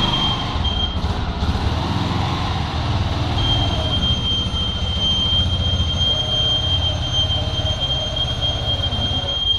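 Motorcycle engine running steadily with a low rumble. A thin, steady high-pitched whine comes in briefly near the start and returns about three and a half seconds in, holding to the end.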